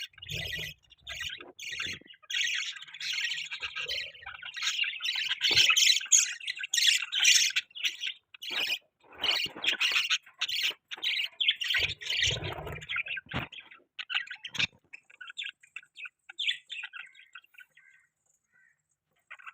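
Budgerigars chirping and squawking in a dense, rapid chatter that thins out after about fifteen seconds and stops shortly before the end, with a few low thumps near the start and again about two-thirds through.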